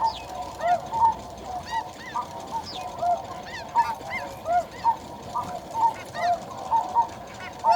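A chorus of snow goose calls: many short, high honks, several a second, overlapping steadily.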